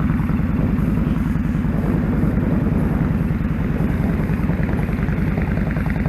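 2001 Kawasaki Drifter 1500's V-twin engine running steadily, a continuous low pulsing exhaust note.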